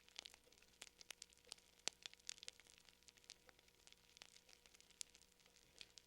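Fire crackling quietly: a steady stream of irregular sharp pops and snaps, several a second and unevenly spaced.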